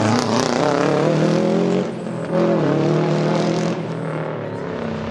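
Rally car engine pulling hard, with a short lift about two seconds in, as at a gear change, then pulling again before it eases off near the end.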